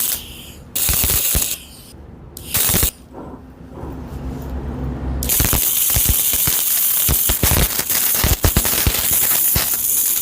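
CO2 (MIG) welder arc crackling and hissing while welding steel, in two short bursts early on and then steadily from about halfway through.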